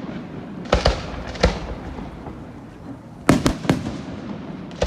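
Fireworks bursting in a series of sharp bangs: two about a second in, another at a second and a half, then a quick run of three a little past three seconds, each trailing off in an echo.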